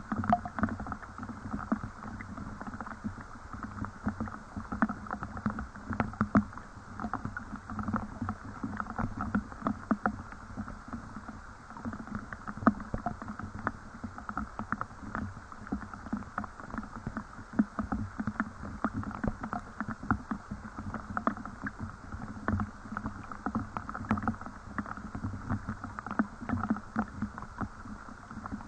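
Steady rain falling, with many separate drops heard as irregular close clicks over a constant hiss.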